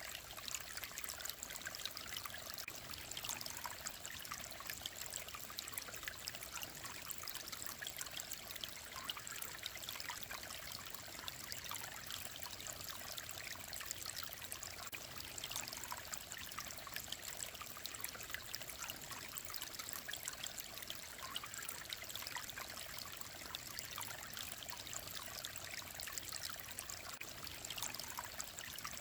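A clear mountain stream trickling and babbling steadily over rocks.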